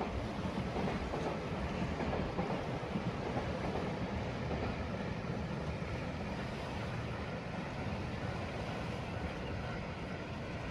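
Freight train running along the line, a steady rumble of wagons on the rails that slowly eases toward the end.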